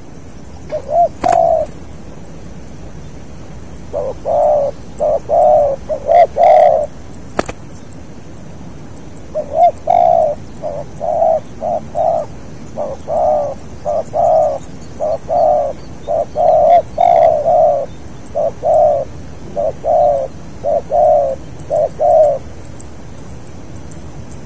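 Spotted dove cooing: short, low, throaty coo notes repeated in phrases, a single call near the start, a run of four, then a long unbroken string of about fifteen notes. A few faint clicks fall between the early phrases.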